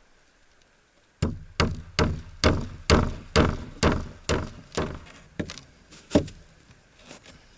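Hammer driving nails into wooden boards: a steady run of about a dozen blows, roughly two a second, growing weaker, then one harder blow.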